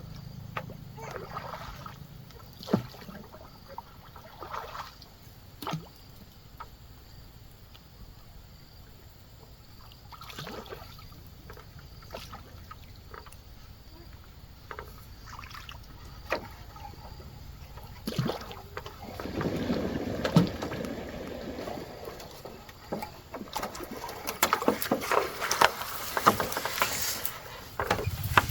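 Paddling a small boat on water: paddle splashes and sloshing, with scattered knocks against the hull, getting busier near the end.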